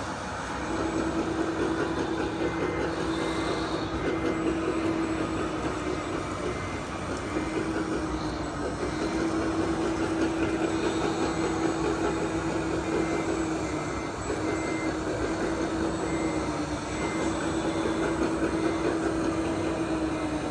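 Radio-controlled model construction trucks working: a steady electric motor whine that breaks off and restarts several times, over a faint high reversing beeper sounding in quick regular beeps.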